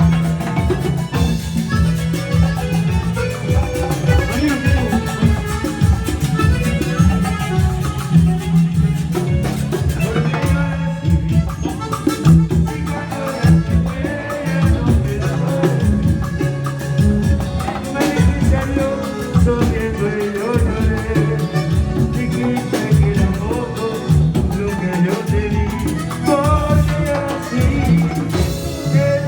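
Live band playing a song, with a strong bass line and a steady drum and percussion beat.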